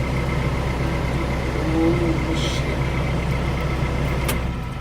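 An engine idling with a steady low hum that drops away just before the end, with a sharp click shortly before it stops.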